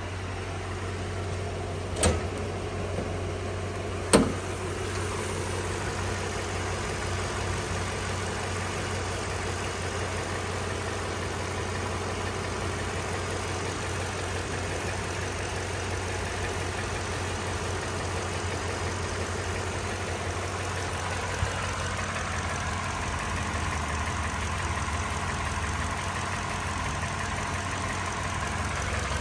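A 2020 Toyota Sequoia's 5.7 L i-Force V8 idling with a steady low hum. Two sharp knocks about two seconds apart come near the start.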